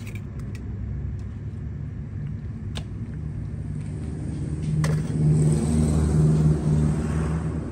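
Motor vehicle engine running steadily, growing louder and rising in pitch about halfway through, then easing off near the end, with a couple of sharp clicks.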